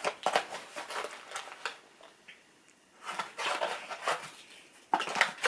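Hair dye kit being unpacked by hand: cardboard and plastic packaging rustling with light clicks and taps, a brief pause about two seconds in, then more rustling.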